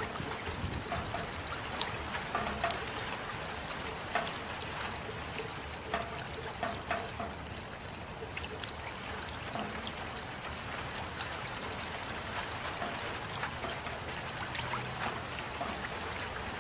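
Steady rain: an even hiss with scattered sharper drops landing close by.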